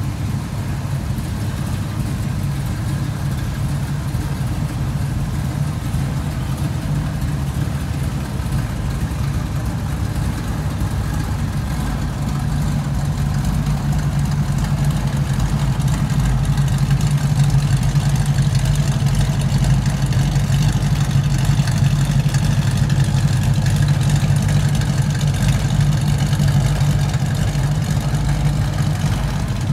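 1969 Ford Mustang Mach 1's V8 engine idling steadily, with a deep exhaust rumble that grows somewhat louder about halfway through as the rear exhaust tips come near.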